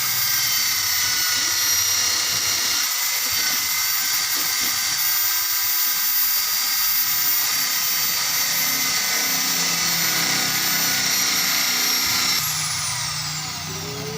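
Electric motor running at a steady high-pitched whine, then switched off about twelve seconds in, its pitch falling as it spins down.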